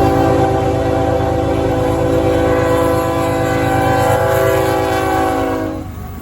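Lead locomotive's multi-chime air horn sounding one long held chord that cuts off near the end, over the low rumble of the passing diesel train.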